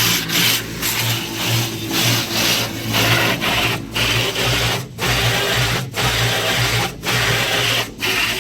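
Automatic tunnel car wash working over the car during the hot wax stage, heard from inside the cabin: a loud swishing and scrubbing that drops out briefly about once a second, over a steady low hum.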